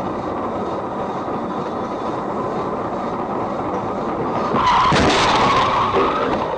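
Steady road noise from a moving car, then about four and a half seconds in, a loud tyre screech lasting about a second and a half as a car skids under hard braking.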